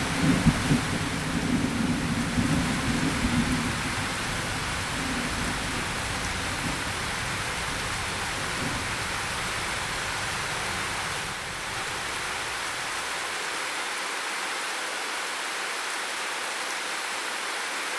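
Steady rain hissing, with a low rumble of thunder that fades out over the first few seconds and leaves only the even rain.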